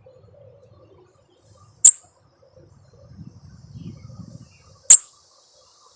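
A bird held close by gives two sharp, loud high chirps, about three seconds apart, with a faint low rumble between them.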